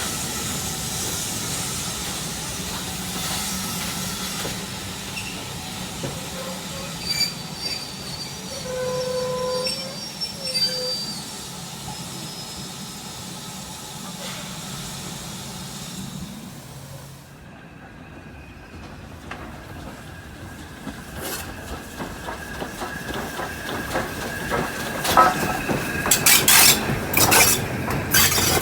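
Heritage railway train running on the rails with brief wheel squeals, then going quiet about two-thirds of the way through as it stops; a run of clanks and knocks follows, loudest near the end.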